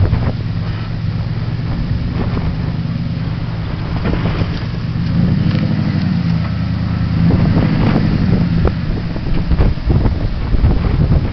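Dodge Mega Cab pickup's engine running with a steady low drone while the truck is driven, with scattered knocks and rattles and wind noise on the microphone.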